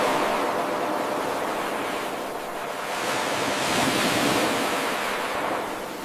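Ocean waves washing in: a steady rush of surf that swells near the start and again around four seconds in, easing off in between and toward the end.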